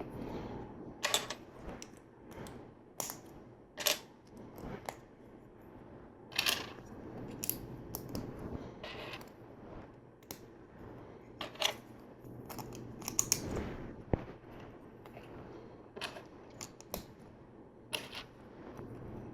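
Small plastic LEGO pieces clicking and clattering as they are handled and pressed together, in irregular sharp clicks over a soft rustle of handling.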